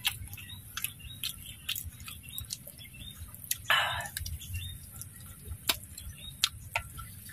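Close-up eating sounds: crispy fried duck being chewed, with irregular small crunches and wet clicks. There is one longer, louder burst near the middle.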